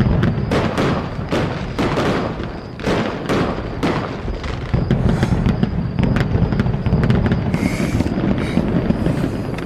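Fireworks going off: a quick run of bangs and crackles over a continuous low rumble, thinning to scattered crackling about halfway through.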